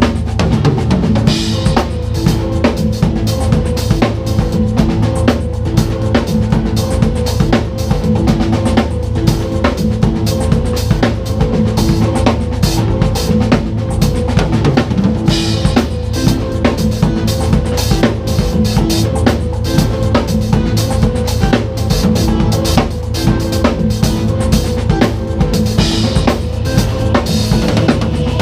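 Acoustic drum kit played in a busy groove, with bass drum, snare and rimshots, over a backing track with steady bass and pitched parts.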